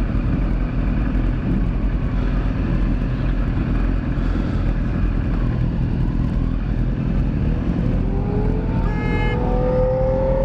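Motorcycle engine idling at a stop under steady traffic noise. About eight seconds in, an engine revs up, its pitch rising slowly over a few seconds.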